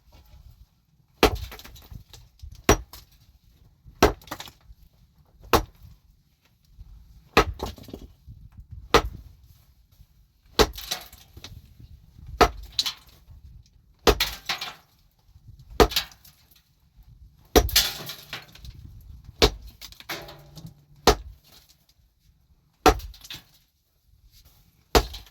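A hand tool striking heavily and steadily, about one blow every second and a half, each blow followed by a short rattle or scrape.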